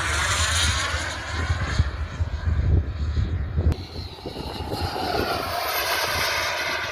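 Radio-controlled model airplane's engine buzzing as it flies past, its pitch sliding down and then rising again as it passes and turns, with wind rumbling on the microphone.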